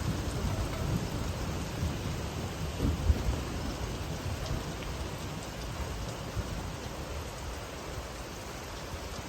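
Steady rain falling, under a low rumble of thunder that swells about three seconds in and fades after.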